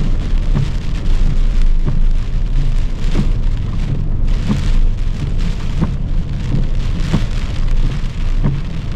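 Heavy rain beating on a car, heard from inside the cabin, over a steady low rumble, with a soft knock repeating about every two-thirds of a second.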